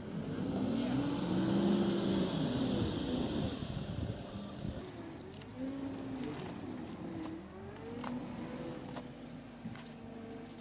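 An engine running and revving, its pitch rising and falling, with a rushing noise that is loudest in the first four seconds and then eases.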